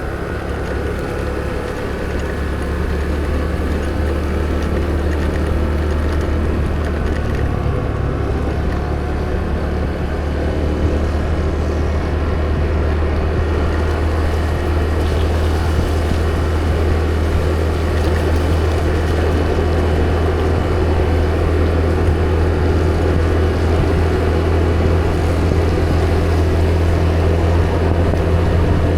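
Steady onboard engine drone and road and wind noise from a motor vehicle cruising at a constant speed, with a low hum that holds steady.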